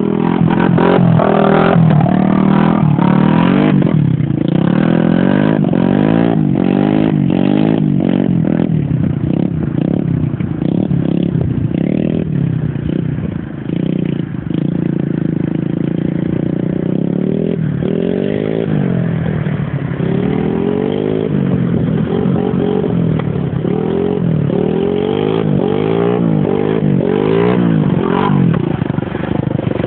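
Pit bike engine revving hard and easing off again and again as the bike is ridden through wet sand, the pitch sweeping up and down repeatedly.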